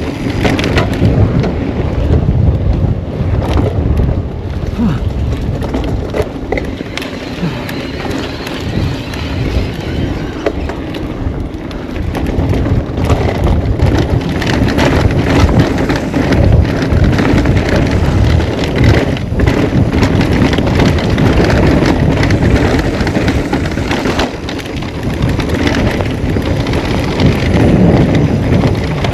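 Wind roaring over the camera microphone as a mountain bike descends a rough dirt trail at speed, with the tyres and frame giving a constant stream of clicks and rattles over rocks and ruts.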